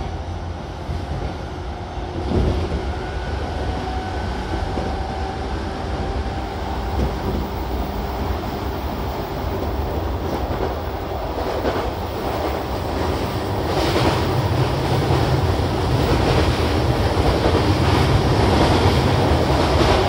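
Running noise inside an E233-7000 series electric train's motor car (MoHa E232-7202) at speed: a steady rumble and roar of wheels on rail with motor hum. A sharp thump comes about two seconds in, and the noise grows louder over the last several seconds.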